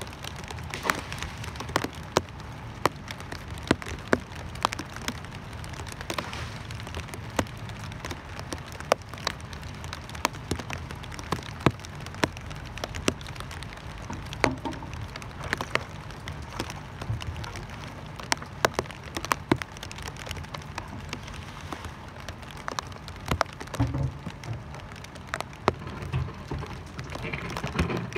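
Rain falling: a steady patter with many sharp, irregular taps of single drops hitting close by.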